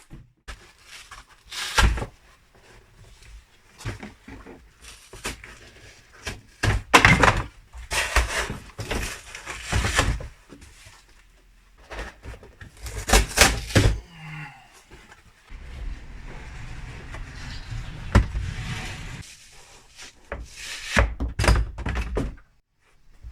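Car door card being pulled off its door: a string of knocks and thunks, some in quick clusters, with a steadier rubbing stretch partway through.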